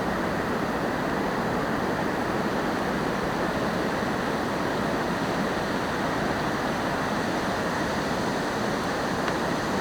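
Campfire of damp wood burning with a steady hiss.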